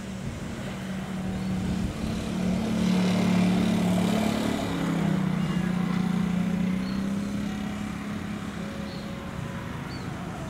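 A rail vehicle passing by: its steady hum swells to a peak in the middle, drops a little in pitch as it goes past, then fades.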